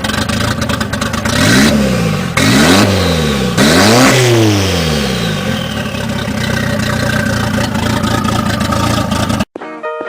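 A vehicle engine revved three times in quick succession, pitch rising and falling with each rev, then running on at a steadier speed until the sound cuts off abruptly near the end.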